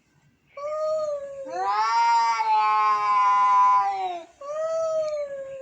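Angry cat caterwauling: three drawn-out yowls, the middle one longest, rising and then falling in pitch.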